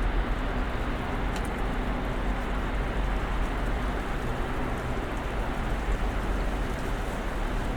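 Snowstorm ambience: a steady, even rush of noise with a deep rumble underneath and a faint steady hum.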